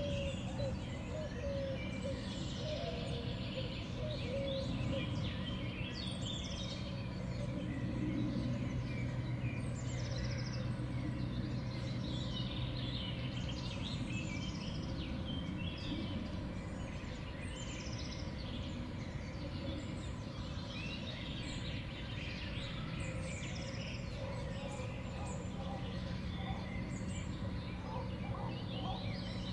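Small songbirds at a winter feeder chirping and calling in many short, high notes, over a steady low hum.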